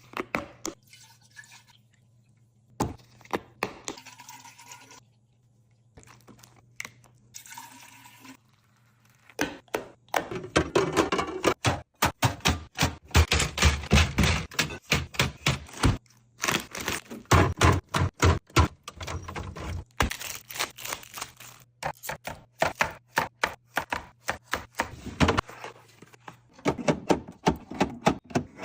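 Fridge-restocking handling sounds: a few separate knocks, then from about ten seconds in a dense run of clicks and thuds as plastic containers, bottles and packages are handled and set down, with some liquid pouring.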